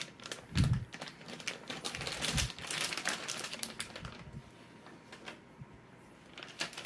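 Plastic parts bags crinkling and rustling as they are handled, with a few light clicks and a couple of soft thumps.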